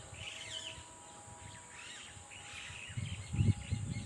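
Many birds chirping and calling together, a mix of short chirps and warbles from a large roost of mixed species including parrots. About three seconds in there is a brief low thump.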